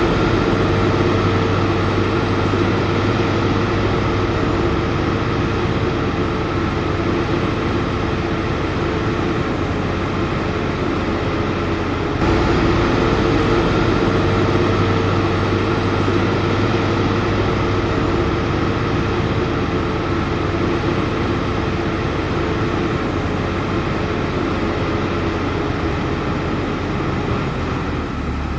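Heavy diesel earthmoving machinery running steadily under load. It grows louder about twelve seconds in.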